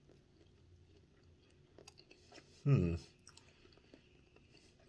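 A man chewing a bite of mochi donut with his mouth closed, with faint soft mouth clicks. A little past halfway comes one short, loud vocal sound from him that falls in pitch.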